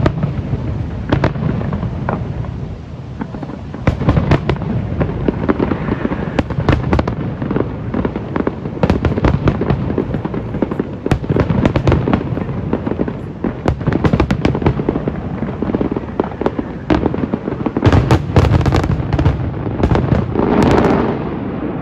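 Fireworks display: a dense, continuous run of shell bursts with booms and crackles, many overlapping, and a thick cluster of bangs near the end.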